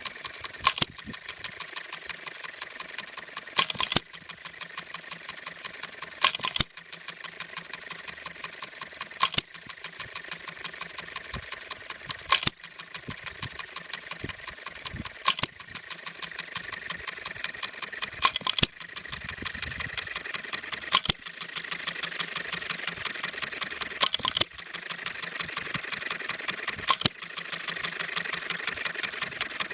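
Scale New Holland hit-and-miss engine by Seven Mountains, with make-break ignition, running: a sharp firing bang about every three seconds, with fast, even ticking as it coasts between firings.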